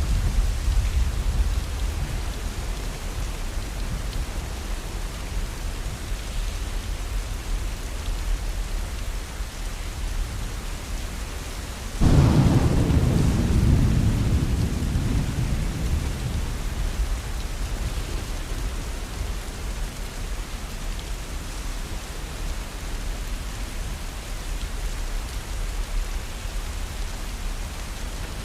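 Steady rain with thunder: a sudden loud crack-and-rumble of thunder breaks in near the middle and rolls away over several seconds, over a constant hiss of rainfall.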